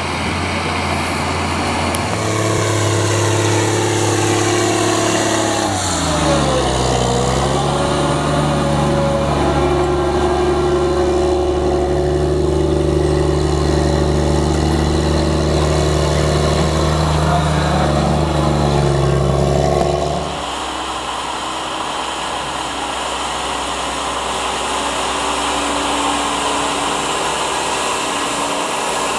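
Large farm tractor's diesel engine running. Its pitch drops about a fifth of the way in and then holds steady. About two-thirds through, the sound suddenly falls to a quieter, rougher rumble.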